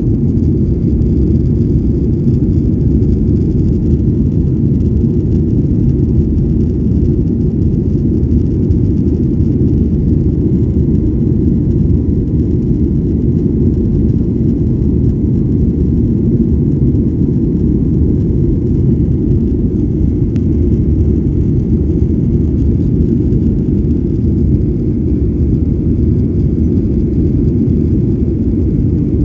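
Steady low rumble inside the cabin of a Boeing 737-800 airliner with its jet engines running.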